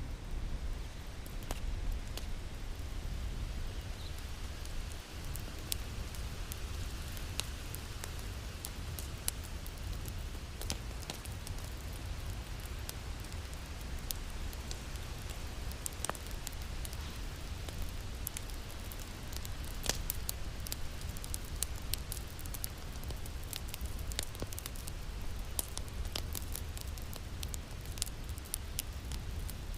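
Wood fire crackling in a fireplace: scattered sharp pops and snaps, some louder than others, over a steady low rumble.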